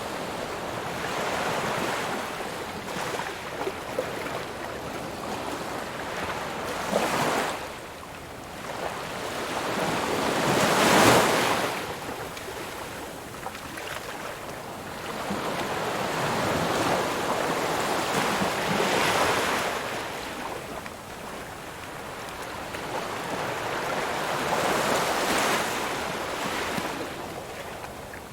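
Ocean waves breaking and washing on a shore, rising and falling in slow surges every few seconds, the loudest break about eleven seconds in.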